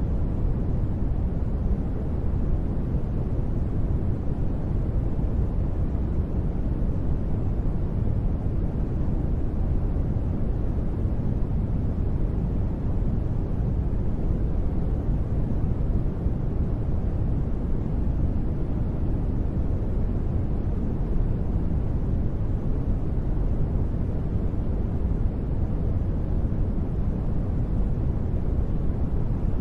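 Continuous synthetic sleep noise, sold as white noise: an even, unbroken rush weighted toward the deep end, with no changes or sudden sounds.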